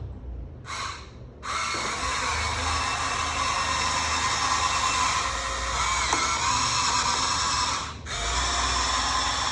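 Electric motors and gearboxes of a Huina 1593 RC excavator whining as it is worked: a short burst about a second in, then a steady drill-like whir that breaks off briefly near the end and starts again.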